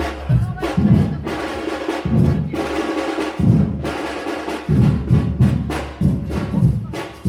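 Live drums and percussion beating a lively rhythm, with sharp knocking strokes over deep drum hits.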